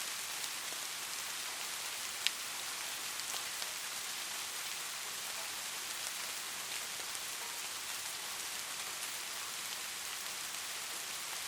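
Light rain falling steadily: an even hiss with scattered drop ticks, and one sharper tick a little over two seconds in.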